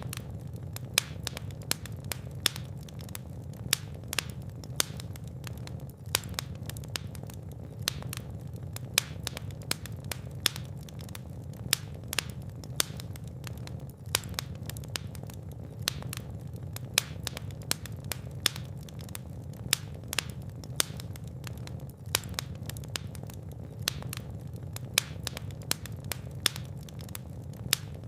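Fire burning in a fireplace: steady low rumble of flames with dense, irregular sharp crackles and pops throughout.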